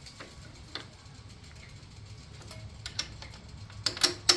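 Small metal clicks and clinks as a washer and bolt are fitted to the floorboard mount: a few scattered light ticks, then a quick run of sharper, louder clicks near the end.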